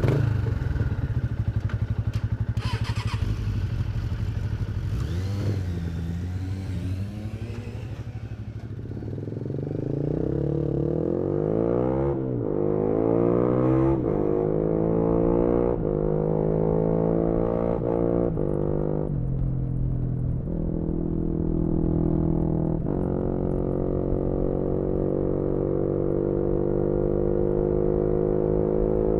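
2018 Yamaha MT-125's single-cylinder four-stroke engine through a GPR aftermarket exhaust, heard from the bike. It eases off about eight seconds in, then pulls hard through several quick upshifts, its pitch climbing and dropping at each gear change, and ends holding high revs.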